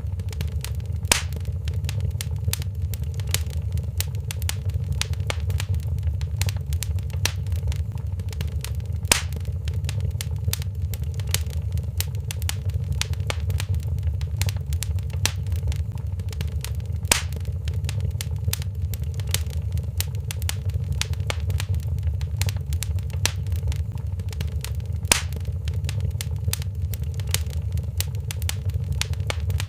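Wood fire crackling in a fireplace: a constant patter of small pops, with a few louder snaps about eight seconds apart, over a steady low rumble of the flames.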